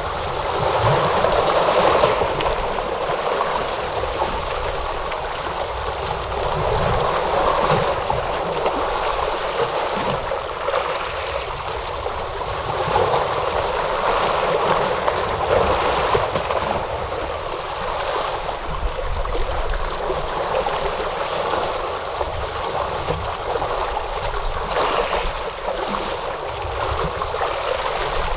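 Ocean waves washing in: a continuous rushing of water with gentle rises and falls in loudness.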